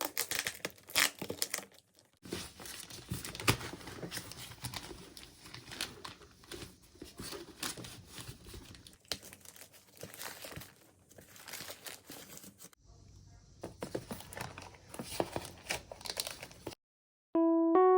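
Packaging being unwrapped by hand, crinkling and tearing in irregular bursts, with handling clicks. Piano music comes in near the end.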